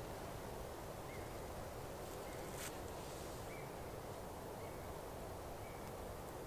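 A small bird giving a short, faint call about once a second over a steady outdoor background hiss. A single sharp click or scrape comes about two and a half seconds in.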